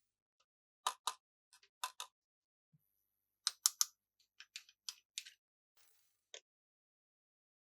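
Irregular sharp clicks and taps, several in quick pairs, from plastic toy playset pieces being handled.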